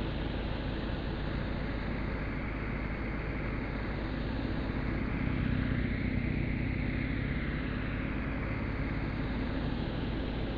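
Cruiser motorcycle engine running at low speed through slow, tight turns, getting slightly louder as the bike passes close about six seconds in.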